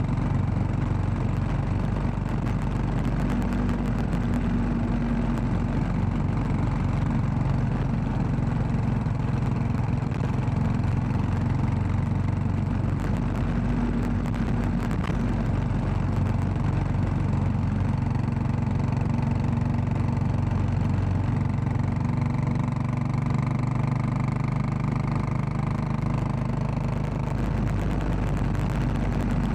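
Royal Enfield Classic 500's air-cooled 499 cc single-cylinder engine running steadily, its pitch shifting only slightly over the stretch.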